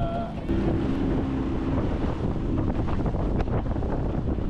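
Small fishing boat's motor running under way, a steady low drone, with wind buffeting the microphone.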